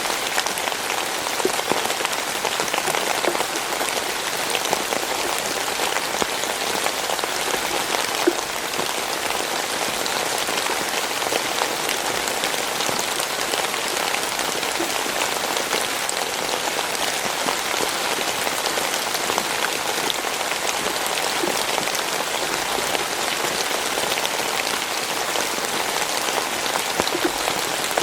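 Steady rain falling, a dense patter of drops hitting a surface at an even level.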